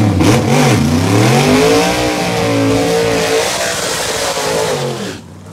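Chevy V8 drag car engine revving hard through a burnout, with the hiss of the spinning rear tyre. Its pitch dips, climbs and holds high, then fades about five seconds in.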